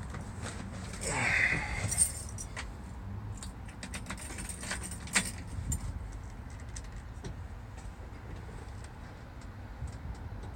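Keys jangling, with a jingle about a second in and a few sharp clicks and knocks, the loudest two about two and five seconds in.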